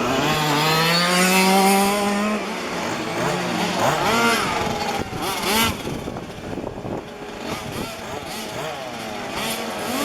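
Small two-stroke petrol engines of 1:5 scale RC cars running on a track, one holding a rising pitch over the first two seconds, then several revving up and down as the cars go past.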